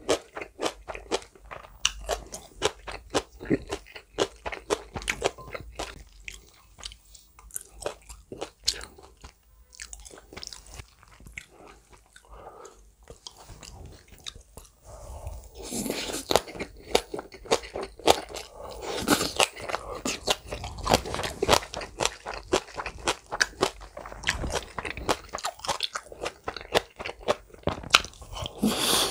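Close-miked chewing of chicken mayo rice and green onion kimchi: a dense run of crunching mouth clicks. It thins out and quietens for a while, then gets louder and busier from about halfway as a fresh mouthful is chewed.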